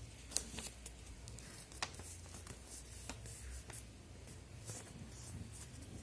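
Sheet of paper being handled and folded: scattered soft crinkles and light ticks, with sharper ticks about a third of a second in and just before two seconds.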